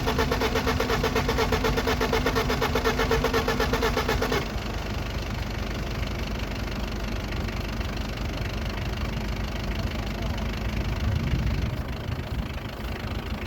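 BMW E34 engine being turned over by its starter motor, an even, rapid pulsing that stops abruptly about four seconds in. A quieter, steady noise follows.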